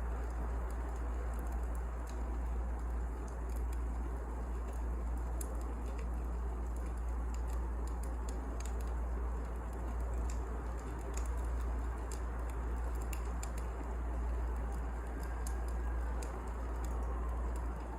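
Wood fire crackling, with scattered sharp pops and ticks over a steady low rush and rumble.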